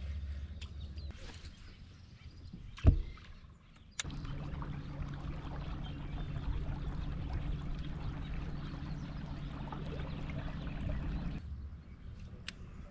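A motor hums steadily on a low tone from about four seconds in, starting and stopping abruptly, with water and wind hiss. There is one sharp knock about three seconds in.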